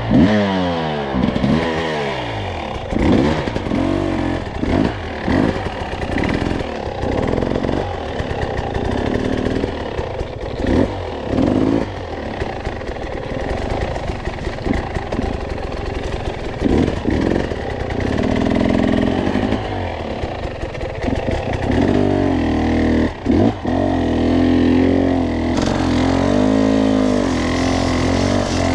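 Two-stroke enduro dirt bike engine being ridden, its pitch rising and falling again and again as the throttle is worked and the gears short-shifted for traction. Frequent knocks and clatter from the bike run through it.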